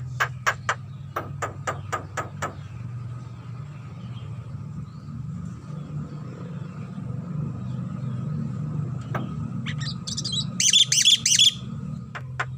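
Javan myna calling: a run of sharp clicking notes about four a second for the first couple of seconds, then a loud harsh burst of rapid chattering notes near the end. A low steady hum runs underneath.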